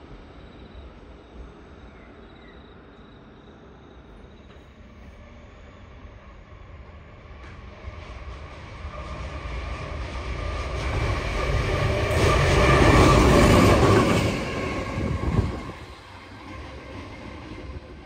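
A diesel train approaching and passing close by on the track, its noise growing louder over several seconds, loudest about 12 to 14 seconds in, then dropping away suddenly about 15 seconds in.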